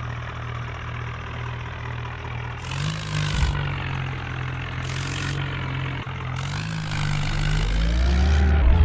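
Tractor's diesel engine running steadily, then revving up and growing louder near the end.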